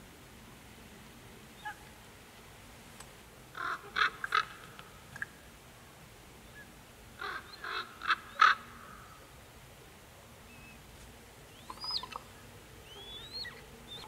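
Birds giving short, harsh, cawing calls in two quick bouts of several calls each. Near the end come a few thin, whistled calls that rise and then fall.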